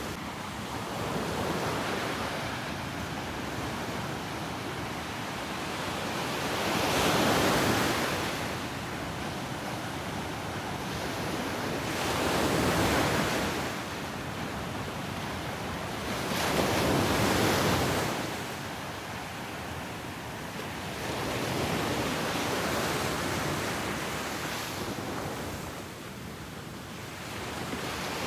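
Ocean waves breaking and washing up a beach, each surge swelling and fading every four to five seconds, with a steady hiss of surf between them.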